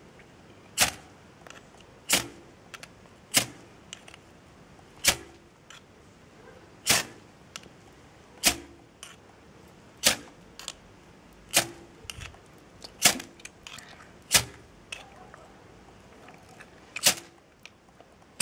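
Ferrocerium rod (firesteel) scraped hard with a striker again and again, about eleven sharp rasping strokes a second or two apart: repeated attempts to throw sparks onto fatwood to light a fire.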